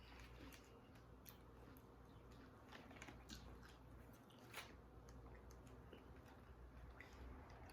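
Faint chewing and biting sounds of people eating, with scattered soft clicks and one sharper click about halfway through.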